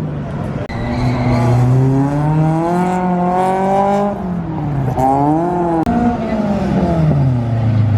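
A car engine revving hard: its pitch climbs for about three seconds, drops sharply about four seconds in, climbs again briefly, then winds down.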